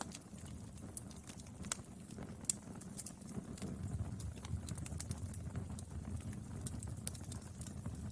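Wood fire burning: a low steady rumble of flames with scattered sharp crackles and pops from the burning firewood.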